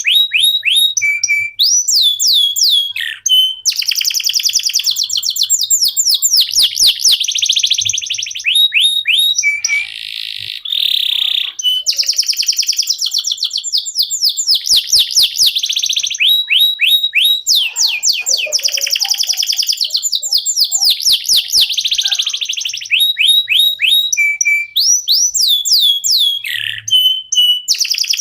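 Domestic canary singing a long, nearly unbroken song of fast trills and rolling chirps, switching to a new run of repeated notes every second or two with only brief pauses: the continuous 'loper' style of song.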